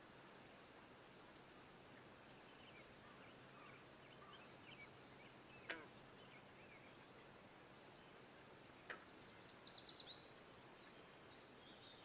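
Quiet pond-side ambience with faint scattered bird chirps. About three-quarters of the way in, a songbird sings a quick run of about ten high notes, each sliding down in pitch; this is the loudest sound. A single short sharp call or knock comes about halfway.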